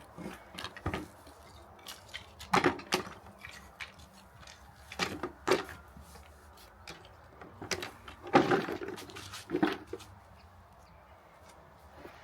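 Scattered knocks and light clatter of wooden pieces and tools being handled and set down, with a few louder knocks spread through and the loudest about eight seconds in.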